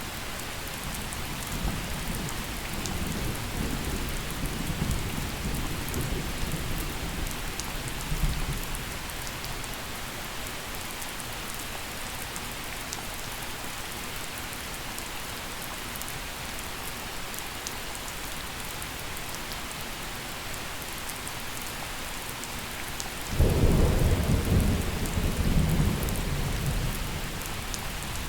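Steady gentle rain falling, with thunder: low rumbling that dies away over the first eight seconds, then a louder crack-and-rumble about 23 seconds in that fades out over the next few seconds.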